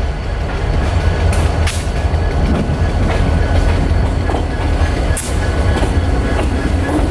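Stillwater Central freight train rolling past, a steady heavy rumble with a few sharp clicks of wheels over rail joints.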